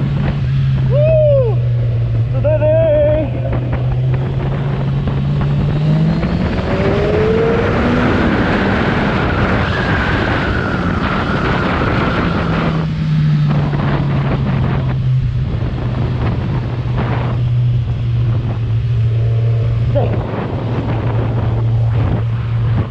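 Kawasaki Z1000R inline-four engine with its stock exhaust, running while riding. About six seconds in the engine pitch rises as it accelerates, with wind rush. From around thirteen seconds it settles back to a steady cruise.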